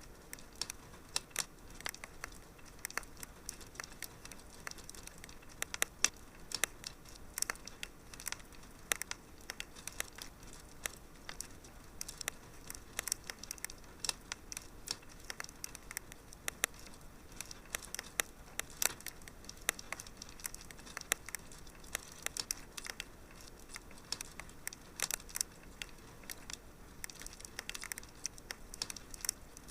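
Wood fire burning in a fireplace: a soft steady hiss under irregular sharp crackles and pops, several a second.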